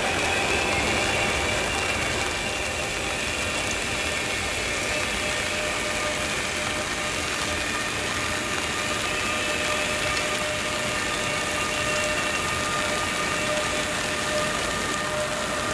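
A train at a station platform running steadily: a continuous noisy rumble with a few steady high-pitched whining tones over it.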